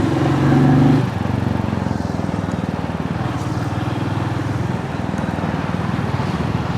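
Motorcycle engine running while riding, a steady, evenly pulsing note, louder for the first second and then holding steady.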